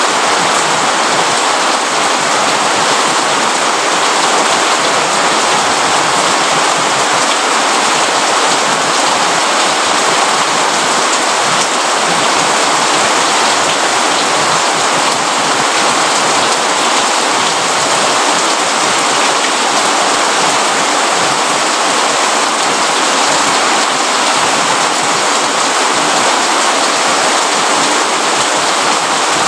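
Steady rain falling, an even, unbroken hiss with no thunder claps or other distinct events.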